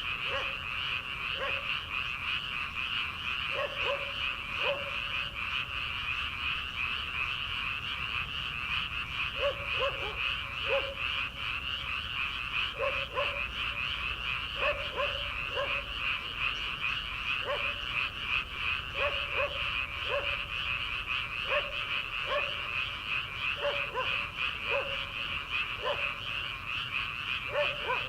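Many paddy frogs calling at once in a dense, steady, high-pitched chorus. Short, lower croaks stand out over it irregularly, about one a second.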